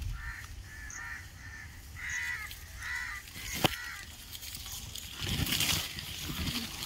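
A bird gives about five short, harsh calls over the first three seconds. A sharp click follows, then leaves and branches rustle as the dense foliage is pushed aside by hand.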